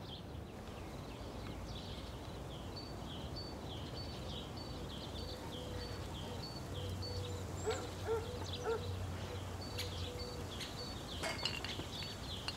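Birdsong: a short chirping call repeated about twice a second over a steady outdoor background, with a few faint clinks in the second half.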